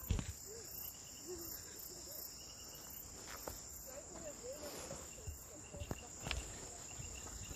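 Night insects of a tropical rainforest: a steady high-pitched drone, with another insect repeating short trains of pulsed chirps. A few faint clicks sound now and then.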